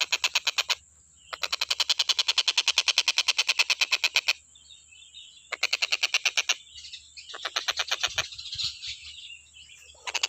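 Tengkek buto (collared kingfisher) calling in fast rattling trills of sharp repeated notes, about a dozen a second. The trills come in several bursts broken by short pauses and softer twittering.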